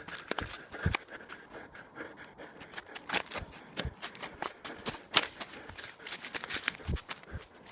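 Footsteps on a trail: a quick, irregular run of crunching steps and sharp clicks.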